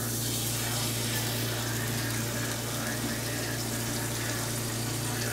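Raw chicken breast sizzling in hot oil in an electric skillet, starting abruptly as the first piece is laid in the pan and then holding as a steady hiss.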